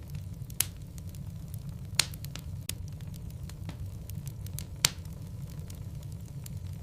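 Wood fire burning in a fireplace: a steady low rumble of the flames with a scatter of small crackles and three loud sharp pops of the burning logs, about half a second, two seconds and five seconds in.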